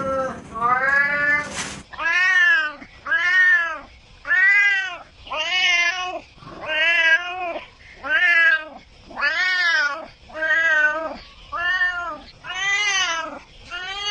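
Domestic cats meowing: one drawn-out meow that cuts off abruptly, then a steady run of short meows, each rising and falling in pitch, about one a second.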